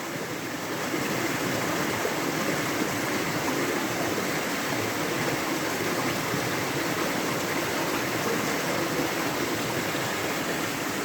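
Waterfall with water rushing and splashing steadily.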